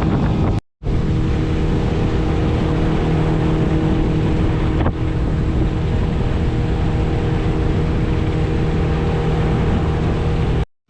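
A fishing boat's motor running steadily under way, with heavy wind buffeting the microphone. The sound drops out completely for a moment twice, near the start and near the end.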